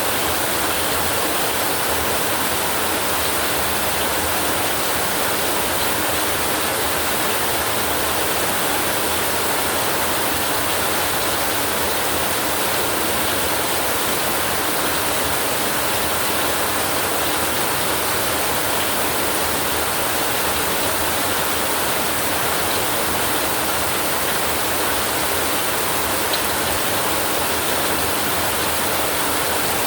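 Steady heavy rainfall, an even hiss with no thunder heard.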